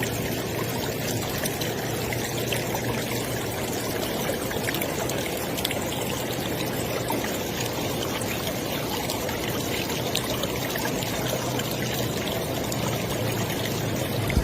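River water flowing, a steady rush with many small splashes and trickles.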